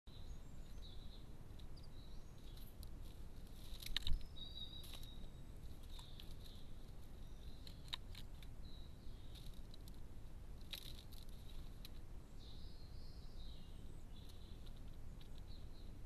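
Small birds chirping faintly and intermittently over steady background hiss, with a few sharp clicks and one louder thump about four seconds in.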